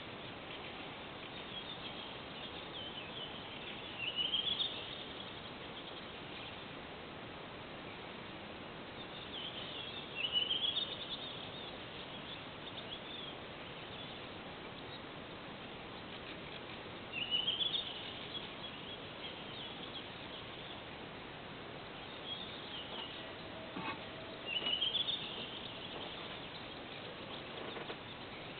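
A bird singing a short, rising song phrase about every seven seconds, four times in all, over a steady background hiss.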